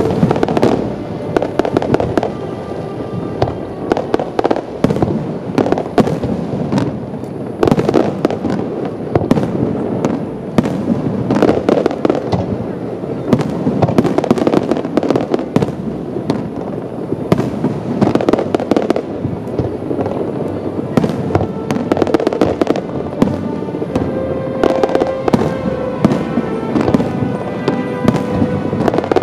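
Fireworks display: aerial shells bursting in rapid, dense succession with crackling, the bangs coming thick and fast with no pause.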